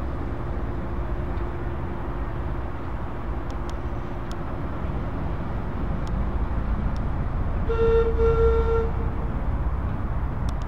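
Diesel-hauled heritage train rumbling steadily as it crosses a bridge, with a locomotive horn sounding once about eight seconds in: a single-note blast of about a second, briefly broken partway.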